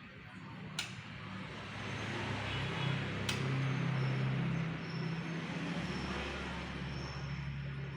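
A road vehicle passing by, its rumble swelling in the middle and easing off, with two sharp clicks in the first half and faint thin high tones near the end.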